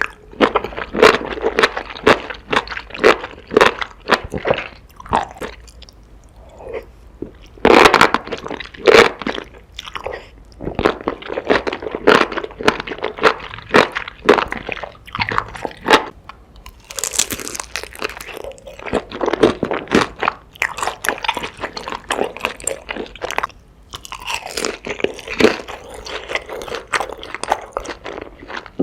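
Close-miked eating sounds: crunchy bites and chewing of food, a dense run of irregular crackles throughout.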